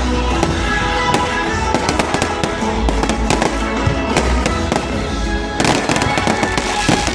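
Dense, irregular crackling pops over steady music with sustained tones, with a denser flurry of pops about five and a half seconds in.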